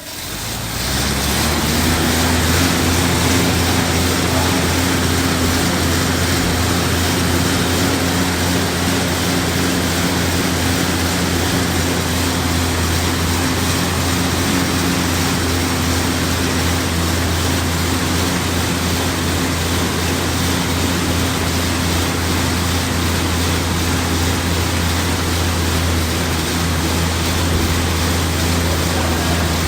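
Fan flywheel of a gym cardio machine spinning up and then whirring steadily at a constant pace, as on an air bike being ridden hard.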